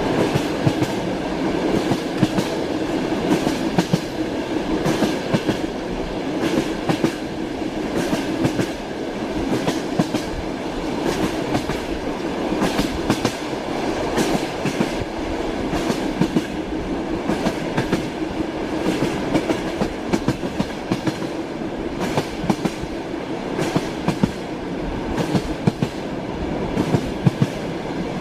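Train running along the track: a steady rumble with the clickety-clack of wheels striking rail joints, the knocks coming in repeated clusters every few seconds.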